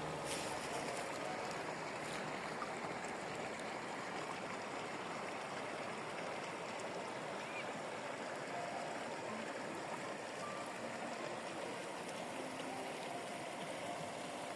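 Water of a stream flowing steadily, an even, unbroken rush.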